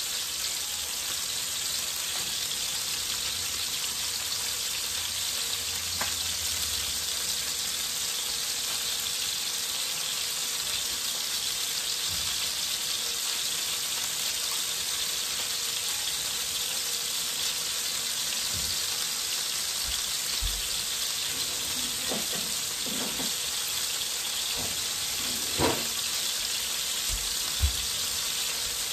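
Cod fillets pan-frying in oil, a steady sizzle, with two short sharp taps near the end.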